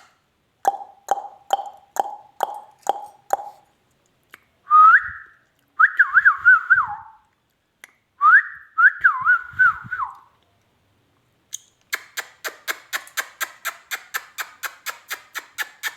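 Indian ringneck parrot vocalising: a run of about seven short notes, then two warbling whistled phrases that rise and zigzag up and down in pitch, then a fast series of clicks, about five a second, starting about twelve seconds in.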